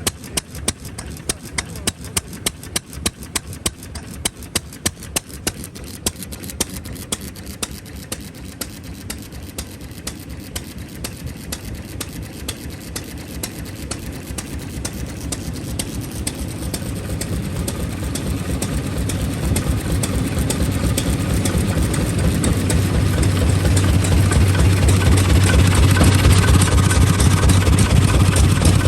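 Old single-cylinder stationary engine running with sharp, regular firing beats about twice a second. Over the second half a lower, steadier engine sound with a deep hum grows steadily louder until it covers the beats.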